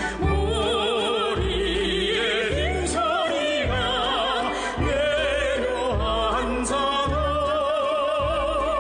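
A recorded song playing: a singer holding notes with a wide vibrato over instrumental accompaniment with a steady low bass.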